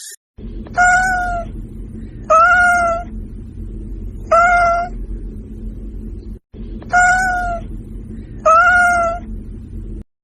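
A cat meowing five times, each meow short and evenly pitched, over a steady low background hum that breaks off for a moment between the third and fourth meows.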